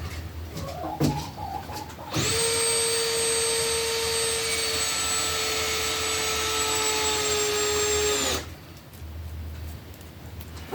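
A power tool's electric motor starts about two seconds in, runs at a steady pitch for about six seconds, then cuts off suddenly.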